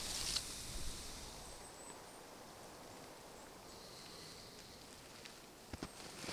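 Faint outdoor winter ambience: a soft, even wind haze, with a few short crunches about half a second and a second in and two sharp ticks near the end.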